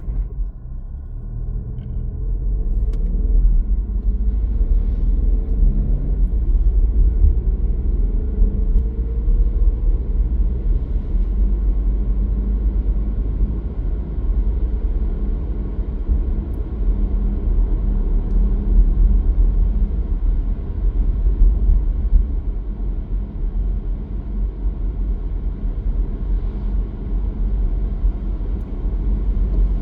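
Car driving on the road: a steady low rumble of engine and tyres that starts suddenly. Its pitch rises over the first ten seconds or so as the car picks up speed.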